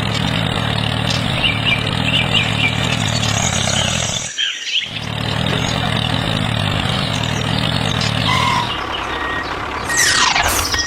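Tractor or truck engine running steadily, cutting out briefly about halfway and then resuming. Near the end comes a quick falling swoosh.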